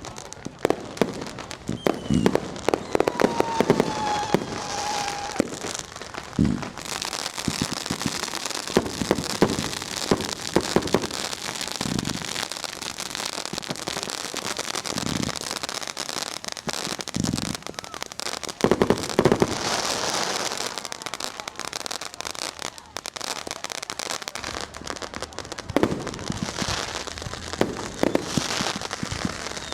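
Fireworks and firecrackers going off close by: a continuous crackle with sharp bangs every second or so, heavier clusters of blasts now and then, and a brief falling whistle about three seconds in.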